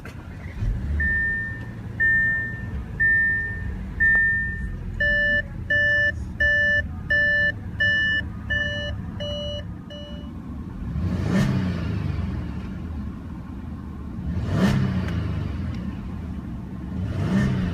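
A 2016 Audi A8L's 3.0-litre supercharged V6 starts and idles while the car's warning chimes sound: four single chimes about a second apart, then about nine quicker, multi-tone chimes. In the second half the engine is revved three times.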